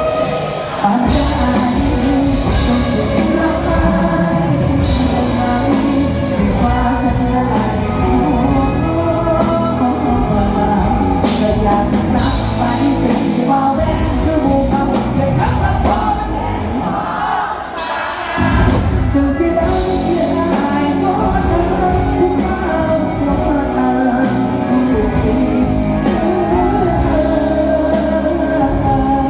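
Live Thai luk thung / mor lam band music with a steady drum beat and a singer's voice; the bass drops out briefly about seventeen seconds in, then the full band comes back.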